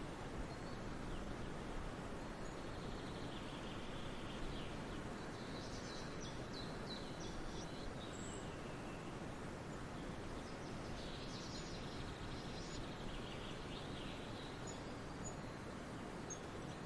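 Forest ambience: steady outdoor background noise with small birds singing faintly, two stretches of trilled, chirping song phrases and a few short high chirps.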